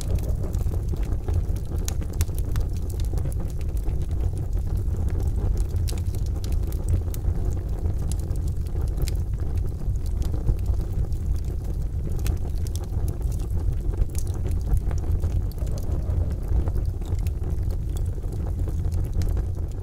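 Crackling fire sound effect: a steady low rumble of flames with sharp pops and crackles scattered all through it.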